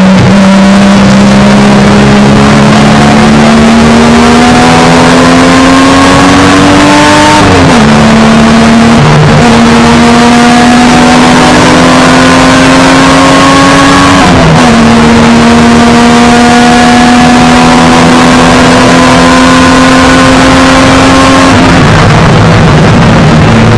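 A 1971 Triumph GT6 race car's straight-six engine, heard from inside the cabin at full throttle, its note climbing steadily through the revs. It takes two upshifts, about 7 and 14 seconds in, with the pitch dropping sharply each time before climbing again. Near the end the note falls and wavers as the driver comes off the throttle.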